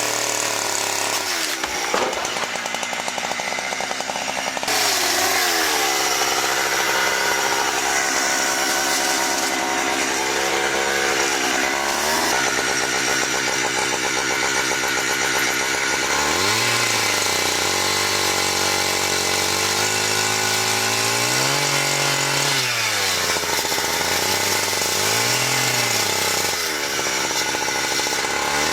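Chainsaw running at high revs while cutting wood, its pitch dipping and recovering several times as the chain loads up in the cut.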